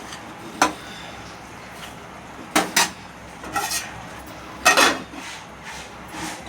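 Metal spoon stirring the masala in a cooking pot, with a few sharp clinks and scrapes of spoon on pot, the loudest near three and near five seconds in.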